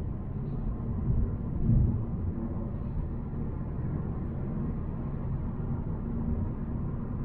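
Volvo C70 on the move: a steady low rumble of engine and road noise, swelling louder a couple of times about a second or two in.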